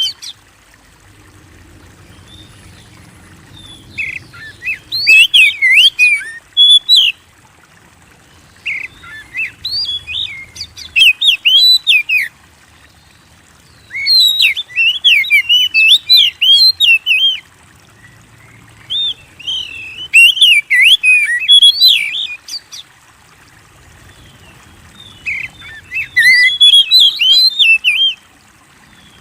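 Oriental magpie-robin (kacer) singing in full voice. About five phrases of rapid, varied whistled notes, each lasting two to three seconds, with short pauses between them.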